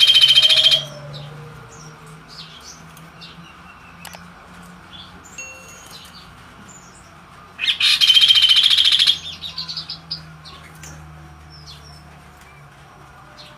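A kaso-kaso songbird singing: two loud, rapid chattering bursts, one at the start and one about eight seconds in, with softer scattered chirps between them.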